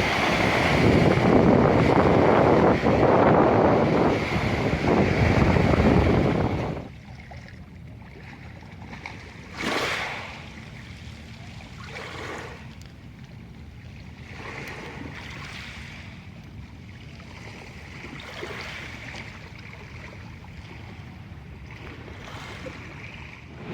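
Black Sea waves at the shore: loud surf for about the first seven seconds, then, after a sudden drop, quieter splashing with a brief swell a few seconds later and softer swells after that.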